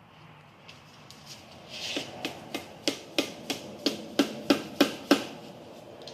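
About eleven sharp tapping blows on a 13B rotary engine housing, roughly three a second and growing louder, as it is knocked down onto the stack during assembly; the housing is sticking and won't go on.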